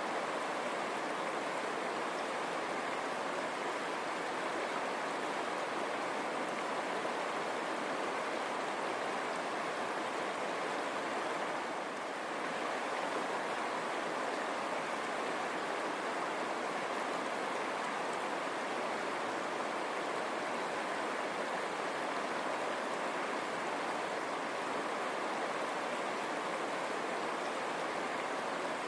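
River water running and babbling over rocks, a steady rushing noise.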